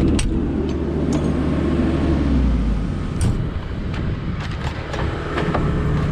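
Engine of a small demolition machine running under load while it pulls out a wall stud, with repeated sharp cracks and knocks of wooden boards breaking. The deep engine hum eases off about halfway through.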